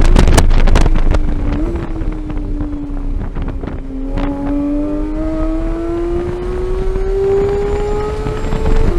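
2015 Porsche 911 GT3's naturally aspirated 3.8-litre flat-six at speed on track. The revs hold low for a few seconds, then climb steadily under acceleration in one gear, with an upshift near the end. Short knocks and wind buffeting run over it throughout.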